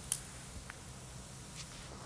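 Wood campfire crackling: one sharp pop just after the start, then a couple of fainter crackles over a low steady background noise.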